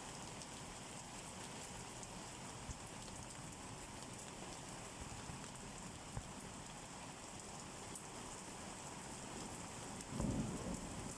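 Steady rain falling, with a few single drops ticking now and then. A short low rumble sounds about ten seconds in.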